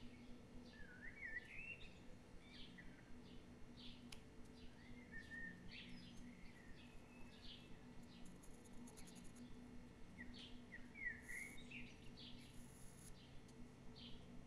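Faint bird chirps, repeated every second or so, with a few short warbled phrases, over a low steady hum.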